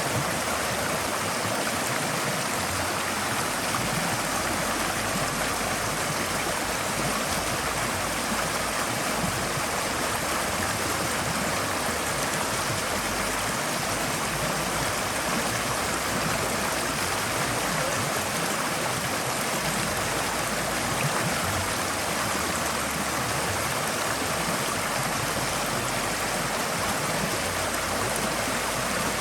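Forest stream flowing over rocks: a steady, even rush of water, with no breaks or changes.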